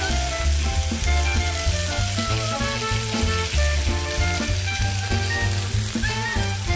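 Pork chops sizzling in a grill pan, with a steady hiss, under background music that has held notes and a deep, prominent bass.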